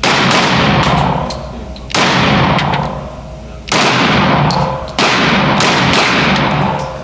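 Four loud pistol shots, spaced unevenly about one and a half to two seconds apart, each echoing for a second or more before it fades, with a few light clicks between them.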